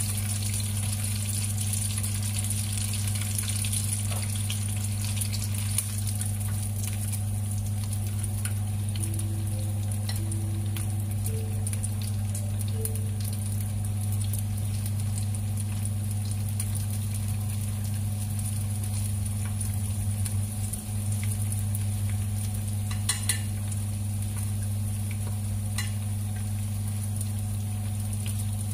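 Dumplings shallow-frying in oil in a nonstick pan: a steady sizzle with scattered small crackles, over a steady low electrical hum. In the second half there are a few sharp clicks as chopsticks knock against the pan.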